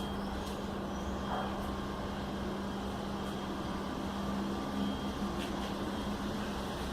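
Steady low mechanical hum with a few faint soft taps.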